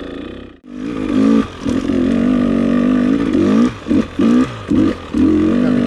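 Dirt bike engine revved in short bursts, the throttle opened and shut several times, with a brief drop-out just under a second in.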